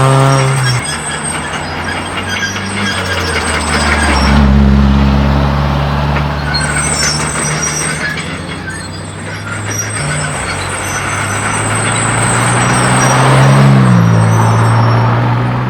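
Modified tuner car exhausts as cars pull away and accelerate, the engine note climbing and growing louder about four seconds in and again near the end.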